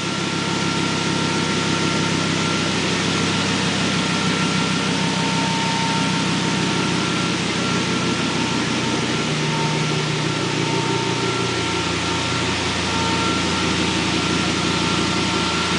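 Inline-five engine out of a 2008 Chevy Colorado (the 3.7-litre Vortec) idling steadily on its first run after being swapped into a '55 Chevy wagon. A thin steady whine sits over it, and the engine note shifts briefly about nine seconds in before settling back.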